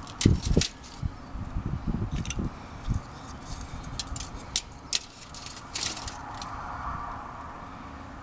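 Kindling and logs burning in a washing-machine-drum fire pit, crackling with sharp irregular pops, with a few dull knocks just after the start.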